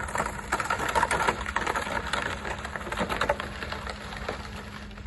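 Falling snow tapping on a mobile phone, heard as dense, irregular crackling and ticking close to the microphone that thins out toward the end.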